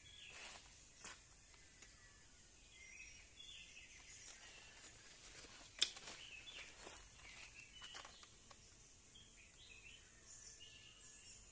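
Several wild birds chirping and calling faintly, in short scattered notes. A single sharp click sounds about halfway through.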